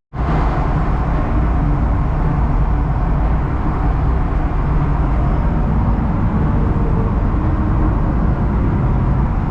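BMW E36 being driven at a steady speed: continuous engine and road noise, steady throughout.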